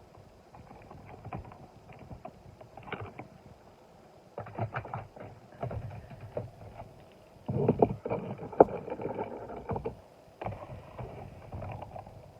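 Die-cast toy cars being handled and rolled on a hard surface, in four bursts of clicking and rattling, the loudest about eight seconds in.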